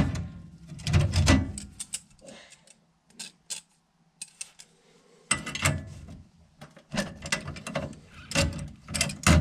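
Hand tools and metal furnace parts clicking, knocking and clattering as they are handled, with a near-quiet pause in the middle, over a faint low steady hum.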